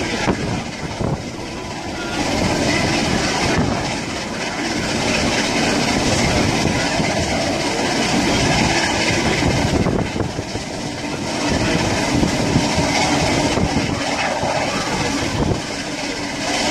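Heritage passenger train running along the line, heard from inside a carriage: a steady rumble and rattle of the wheels on the track.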